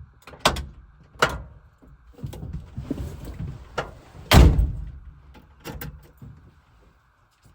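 Door latch clicks and knocks on a 1974 Volkswagen Westfalia camper van, with one heavy door slam about four and a half seconds in.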